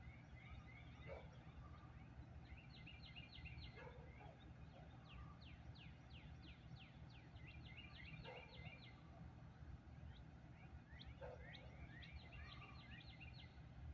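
A faint songbird singing repeated phrases of quick falling notes, several songs a few seconds apart, over a low steady rumble.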